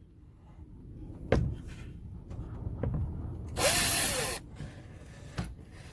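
A handheld power drill runs briefly for under a second about midway, its pitch rising as it spins up and falling as it stops. A sharp knock comes before it and another near the end.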